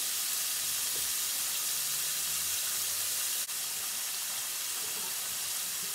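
Coated pieces of salt cod (baccalà) frying in a skillet of hot oil: a steady sizzling hiss.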